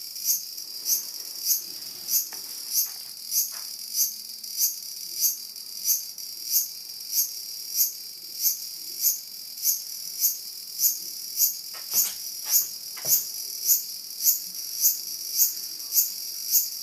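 Cicada buzzing: a steady high-pitched drone that swells in even pulses, a little under two a second. A few soft knocks come about twelve and thirteen seconds in.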